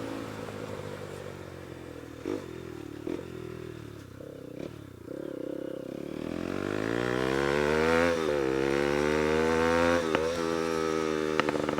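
Bajaj Pulsar NS200's single-cylinder engine through an SC Project aftermarket exhaust, first dropping in revs off the throttle with a few short pops, then accelerating hard. The revs climb, break twice for upshifts, and settle at a steady high pitch near the end.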